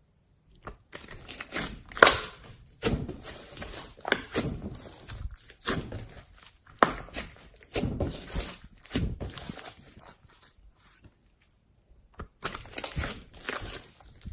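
Slime being squeezed and poked by hand: irregular crackling clicks and squelches, with a loud snap about two seconds in and a short pause past ten seconds in.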